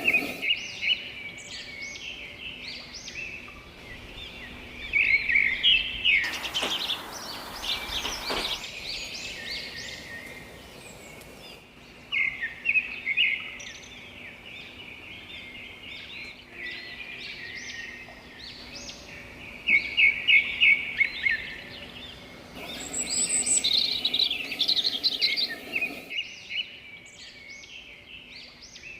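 Several songbirds chirping and singing in quick overlapping phrases and trills, high-pitched and continuous. A rushing hiss rises behind them for about two seconds around six seconds in and again for about three seconds near the end.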